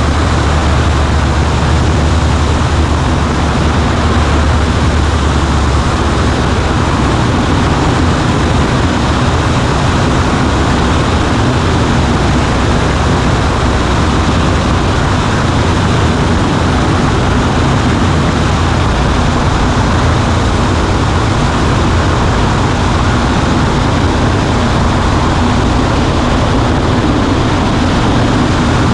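Cessna 140A's piston engine and propeller running in flight, heard from inside the cockpit: a loud, steady drone with rushing wind noise. The low hum shifts slightly about six seconds in.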